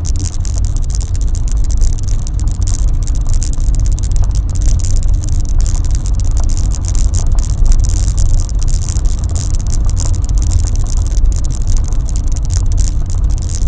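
Car driving: a steady low engine and road rumble with tyre hiss and many small clicks and knocks.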